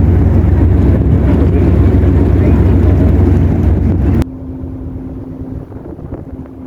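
Loud, steady, low engine rumble of a small car ferry, with wind on the microphone. About four seconds in it cuts abruptly to a much quieter steady hum.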